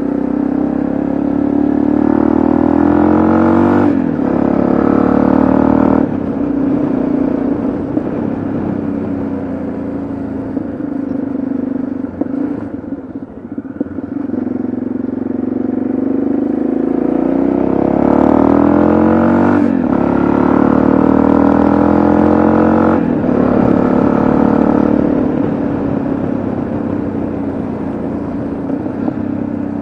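Yamaha XT660Z Ténéré's single-cylinder engine under way, pulling through the gears: the pitch climbs and drops sharply at each upshift, four times in all. About halfway through it eases off, then picks up again.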